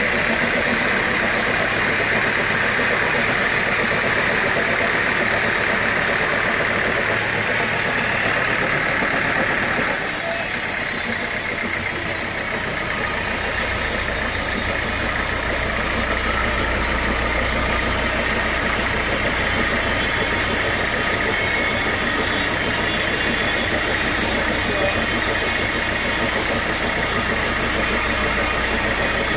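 Sawmill machinery running, a steady engine-like drone with no pauses. About ten seconds in the sound changes abruptly, and a couple of seconds later a steady deep hum comes in.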